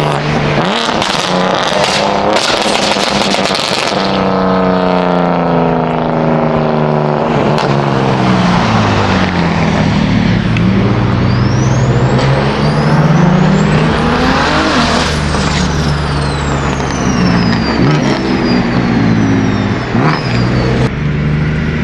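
Car engine accelerating and slowing, its pitch climbing and dropping repeatedly. A high whine rises to a peak about fifteen seconds in and then falls away, with short crackles in the first few seconds.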